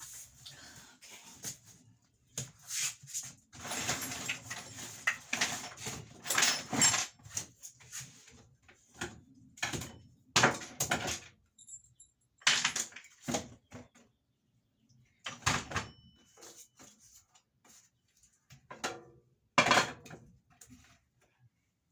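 Irregular knocks, clatter and scraping as a kitchen sink is worked loose and taken out of its counter by hand, in bursts with a few short pauses.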